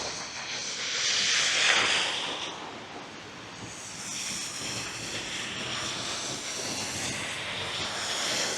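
A vehicle passing on a snowy city street, its rushing tyre noise swelling and fading within the first few seconds, then a longer steady rush of passing traffic from about halfway through.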